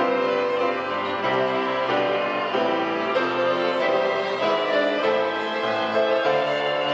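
Church orchestra playing a hymn arrangement, with violins carrying the melody over cello and bass notes, in held notes that move every half second or so.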